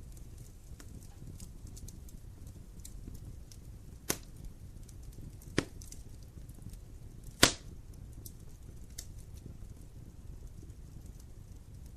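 Wood fire burning in a fireplace: a low steady rumble of flame with light crackling of the logs, and three sharp loud snaps of burning wood around the middle.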